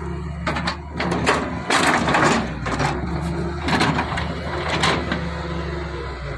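A Daewoo digging machine's diesel engine runs steadily while a load is dumped into a truck, with a string of loud rattling crashes, the heaviest about two seconds in and more near four and five seconds.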